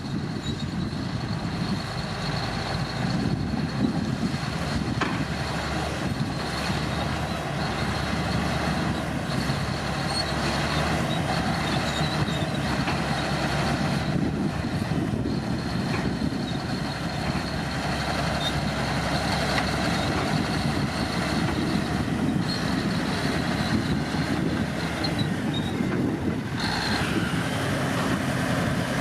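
Komatsu D65P bulldozer running steadily while working earth, its diesel engine the main sound, with a thin high whine running through it; the sound shifts briefly near the end.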